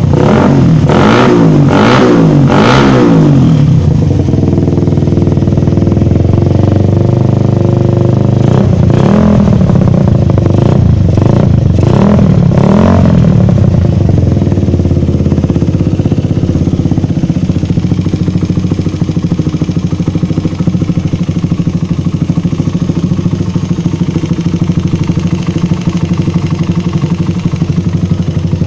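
Suzuki Satria FU's single-cylinder engine running through a stainless aftermarket racing exhaust, revved in a run of quick blips at the start and again about ten seconds in, then settling to a steady idle.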